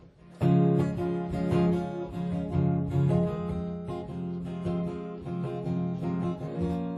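Acoustic guitar strummed in a fast, steady rhythm. It starts just under half a second in after a brief pause.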